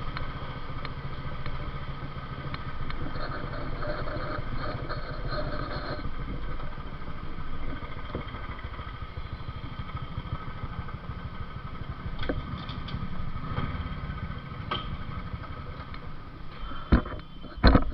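Motorcycle engine running steadily under way, a low, fast-pulsing rumble with road noise. Near the end come a few loud, sharp knocks.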